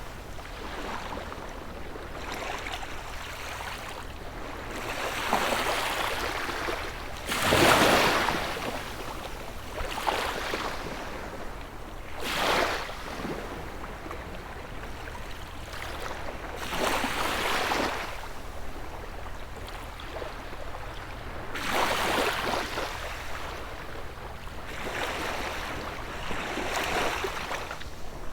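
Small sea waves breaking and washing up the shore, one surge every few seconds, the loudest about eight seconds in, over a steady hiss of water.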